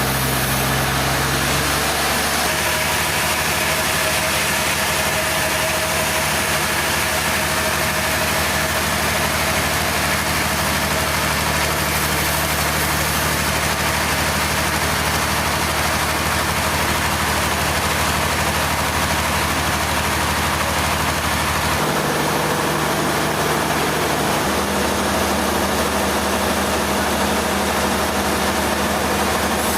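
A heavy engine running steadily under a loud, even hiss, its low hum stepping to a new pitch about two seconds in and twice more in the last third.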